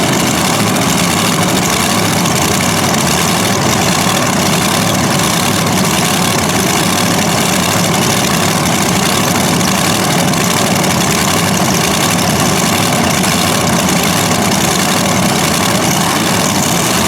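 The engines of a four-engine Modified pulling tractor running together at a steady, loud idle after start-up, with no revving.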